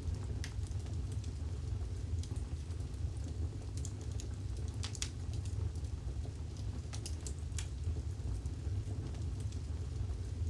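Wood fire burning in a fireplace, crackling with scattered sharp pops, a little cluster of them about halfway through, over a steady low rumble.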